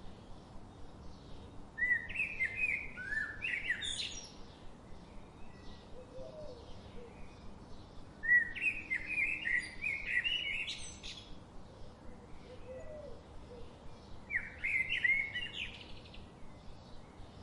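Birdsong: one songbird repeats a quick warbled phrase three times, each about two seconds long and ending in a high upward sweep. Fainter chirps from other birds continue between the phrases.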